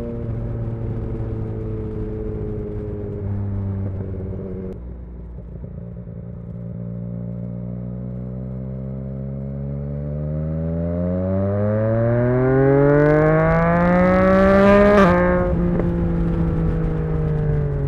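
Yamaha XSR900 inline-three engine through an exhaust with the dB killer removed. It runs steadily, drops in engine speed, then climbs smoothly for about five seconds. Near the top a rush of noise joins in, and the engine speed falls sharply about fifteen seconds in, then holds lower.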